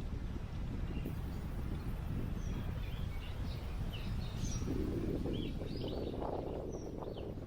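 Wind blowing on the microphone, gusting stronger for a couple of seconds past the middle, with small birds giving short scattered chirps.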